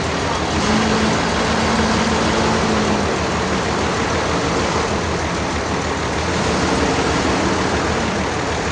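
Sawmill machinery running steadily: a dense mechanical drone, with a humming tone that comes in twice.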